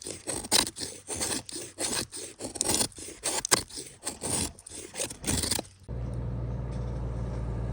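A quick, irregular run of scraping and rubbing strokes for about six seconds, then a steady low hum that continues.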